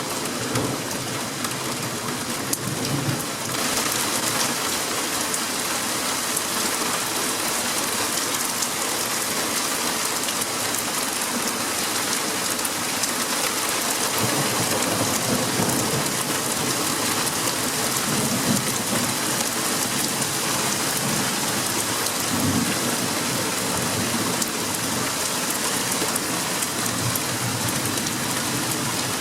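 Heavy rain falling in a steady hiss, getting louder about three seconds in, with low rolls of thunder rumbling through it several times.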